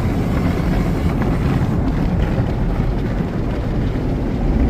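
Pico tunnel car wash working over the car, heard from inside the cabin: side brushes and water spray make a steady rushing wash noise.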